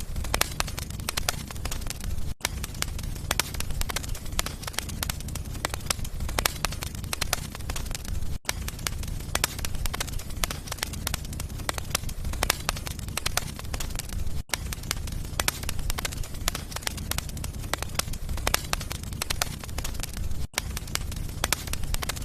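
Wood fire burning in a fireplace, crackling and popping densely and steadily over a low rumble, with a split-second gap about every six seconds.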